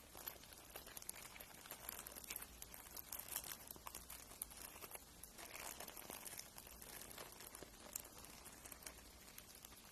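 Fingernail being filed: faint, scratchy rasping with many fine crackles, somewhat louder through the middle.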